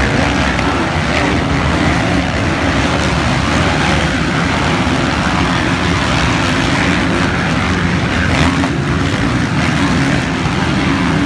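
Motocross dirt bike engines running loud and continuously, their pitch wavering a little.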